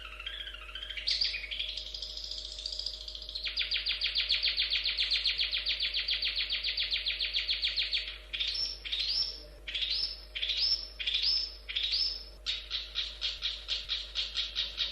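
Long-tailed shrike (cendet) singing a varied song: warbling phrases, then a long fast trill, then a series of rising whistled sweeps about two a second, ending in rapid repeated notes. A faint steady electrical hum lies underneath.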